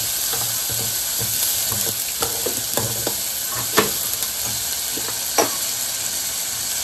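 Chopped onions and tomatoes sizzling in hot oil in a clay pot while a steel spoon stirs them, scraping and knocking against the pot. The sharpest knocks come a little under four seconds in and again past five seconds.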